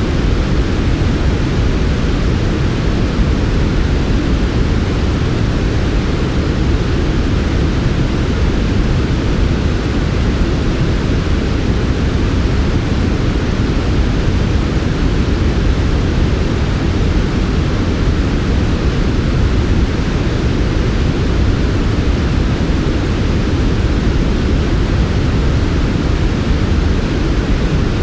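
Steady, smooth white noise for sleep, unchanging, with its weight in the low end and thinning out toward the highs.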